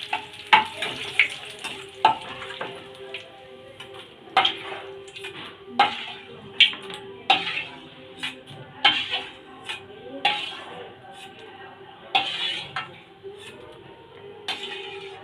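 Curry leaves frying in hot oil in a metal kadai, with a faint sizzle, while a metal spoon stirs them and knocks against the pan about once a second.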